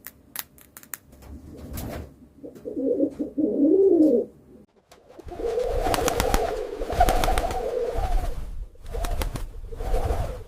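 Pigeons cooing in low, rolling calls, with a few sharp clicks in the first second. From about halfway through, the cooing runs on almost without a break, mixed with many quick clicks and a low rumble.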